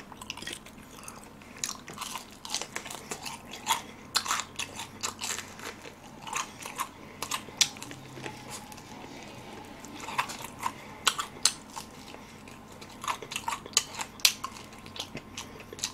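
Chewing and crunching of extra-crispy fried chicken batter, with many sharp, crackly bites coming in uneven clusters with short pauses between.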